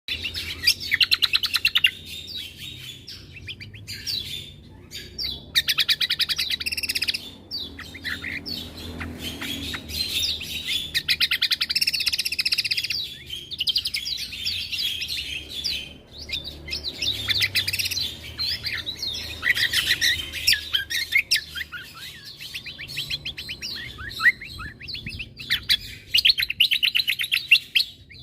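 Cucak kombo singing a long, varied song of rapid high-pitched chirps and trills in bursts of a few seconds, with brief pauses between phrases. This is the kind of recording kept as masteran, song for other songbirds to learn from.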